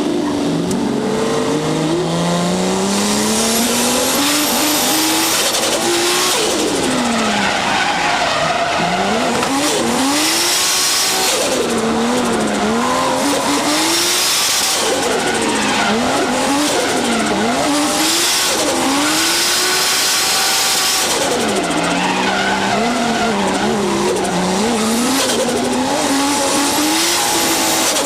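Turbocharged 1JZ straight-six with a Trust T67-25G turbo revving hard during drifting, its pitch repeatedly dipping and climbing again, with tyres squealing and skidding in several stretches.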